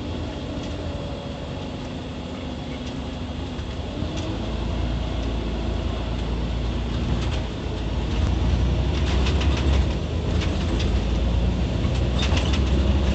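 Scania OmniCity city bus heard from inside while under way: a steady low engine and drivetrain rumble whose pitch rises about four seconds in, growing louder in the second half, with bursts of clicking rattles near the end.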